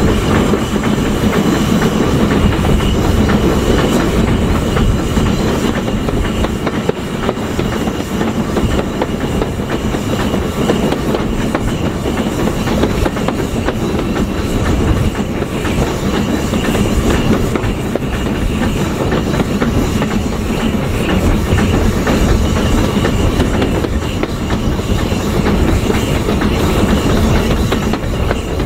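Train running along the track: a steady noise of the train in motion, with wheels clicking over rail joints.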